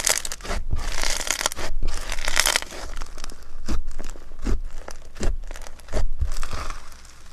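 Slime being worked by hand: dense crackling and crinkling for the first two to three seconds, then separate sharp pops, about one every three-quarters of a second.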